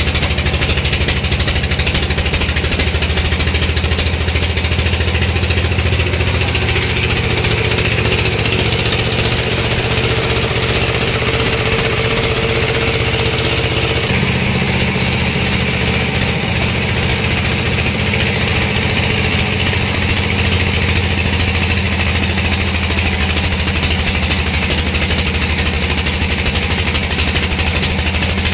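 Sawmill machinery running steadily with an engine-like drone, its pitch shifting about halfway through.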